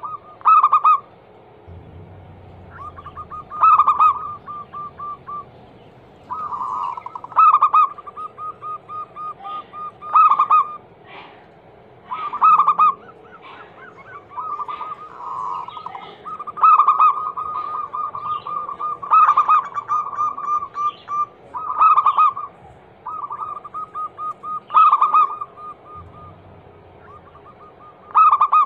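Zebra dove (perkutut) song: repeated loud coo phrases, each running into a quick staccato string of short cooing notes, every two to three seconds.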